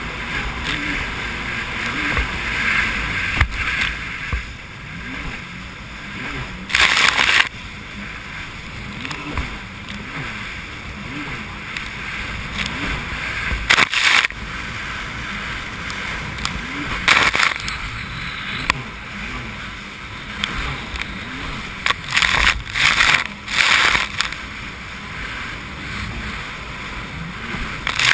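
Jet ski engine running under way, its pitch wavering up and down. Several short, loud rushing bursts cut in over it.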